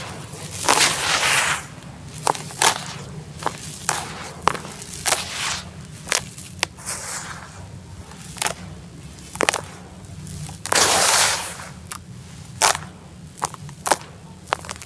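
Dried sand-cement chunks crumbling and cracking. There is a string of sharp cracks and snaps, with two longer hissing crumbles: one about a second in and one near eleven seconds.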